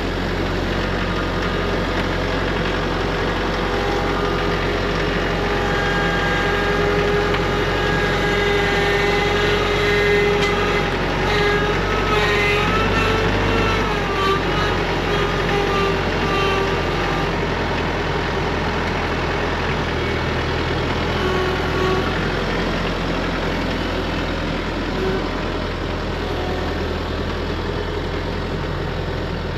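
Tractor engine running steadily, with a whining tone that wavers in pitch through the middle stretch and a shift in the engine note about halfway through.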